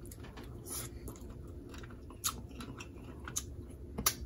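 Scattered soft clicks and smacks of eating, chewing and handling food, a few sharper ticks among them, over a low steady hum.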